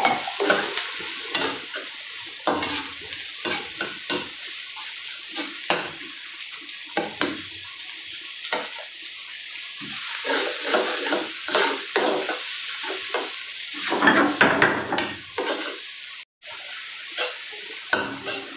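Garlic, onion and tomato sautéing in hot oil in a wok (kawali), sizzling steadily, while a spatula stirs and scrapes against the pan with frequent short clacks.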